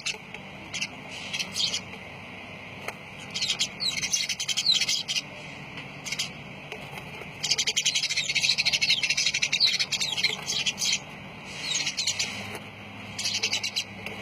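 Lovebirds chirping in several bursts of rapid, high-pitched calls, the longest lasting about three seconds midway.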